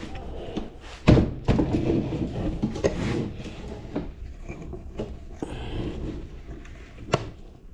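Knocks and thuds of heavy objects being handled and set down, with a loud thump about a second in and a sharp knock near the end.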